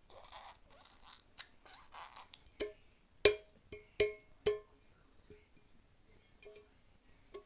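A child banging on a small metal saucepan: about five sharp clangs in quick succession around the middle, each ringing briefly with the pot's tone, then a couple of lighter taps.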